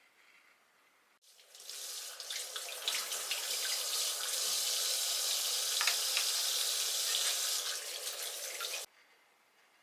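Kitchen tap running water into a sink. It is turned on about a second in, runs steadily for about seven seconds, then shuts off abruptly.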